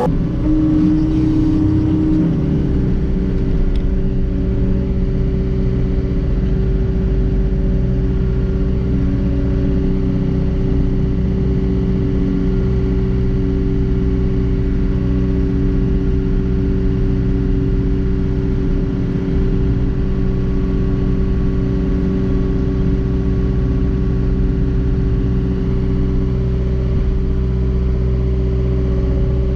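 John Deere 331G skid steer's diesel engine running at a steady speed, with a constant drone throughout.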